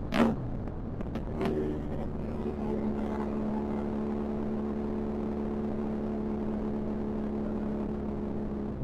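Benelli TRK 502 X's parallel-twin engine running through an Arrow exhaust with the dB killer removed. There is a brief sharp sound about a quarter second in and a lighter one about a second later, then the engine holds a steady note.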